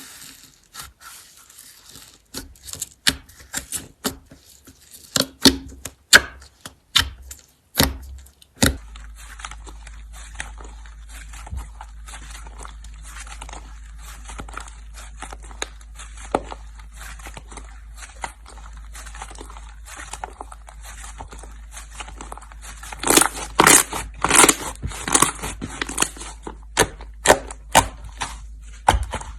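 Slime being squished and poked by hand, giving irregular sticky pops, clicks and crackles, with a denser, louder run of crackling about 23 seconds in.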